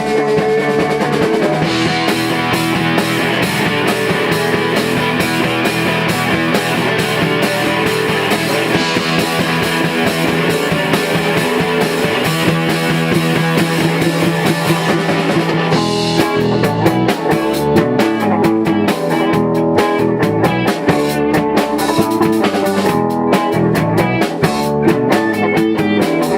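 A rock band playing live at rehearsal, with guitar and drum kit. About sixteen seconds in, the dense wash gives way to sharper, separated drum hits.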